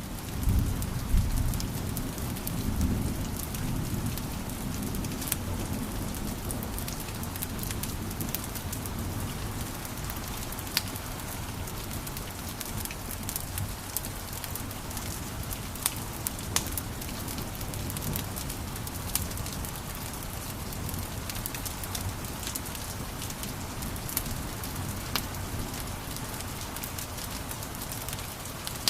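Wood fire crackling in a fireplace: a steady hiss and low rumble of flames, with many irregular sharp pops and snaps, the rumble heavier in the first few seconds.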